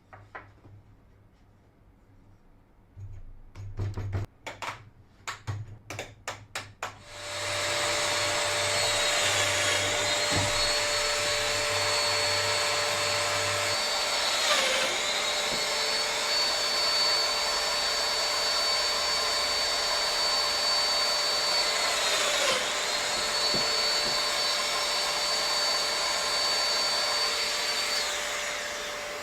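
A few handling knocks, then an electric power tool's motor starts and runs with a steady high whine. Its pitch dips briefly twice as it comes under load in the wood, and it winds down near the end.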